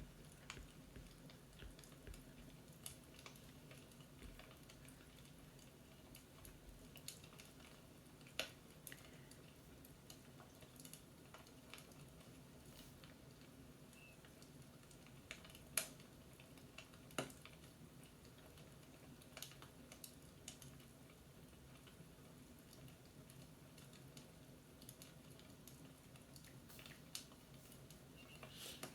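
Faint fireplace crackle: a soft low fire hum with sparse, irregular sharp pops, a few louder ones scattered through.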